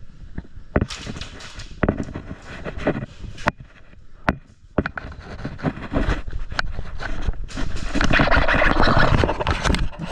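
Scraping and rustling of gear against a body-worn action camera, with scattered sharp clicks and knocks, turning into a dense, louder stretch of scraping noise in the last couple of seconds.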